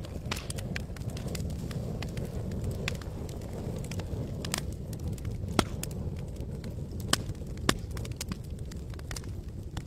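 Campfire crackling: irregular sharp snaps and pops of burning wood, a few louder ones past the middle, over a steady low rumble of the flames.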